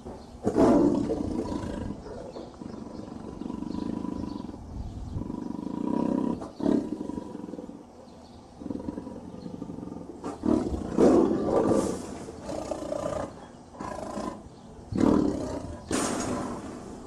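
Lion roaring: three loud roars, about half a second in, around the middle and near the end, with lower, quieter growling between them.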